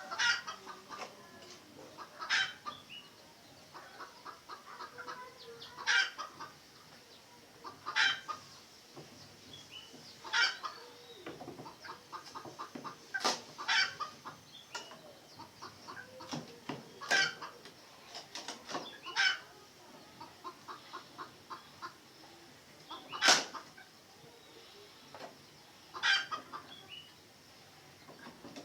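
Red junglefowl clucking, with short, sharp calls every two or three seconds.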